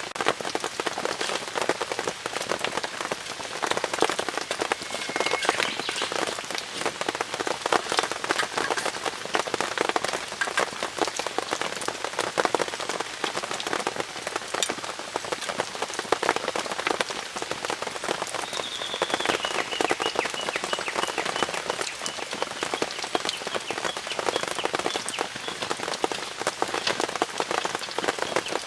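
Steady rain falling on a tent-Mark Designs Enmaku (炎幕) tarp shelter, a dense, even patter of many small drop clicks with no let-up.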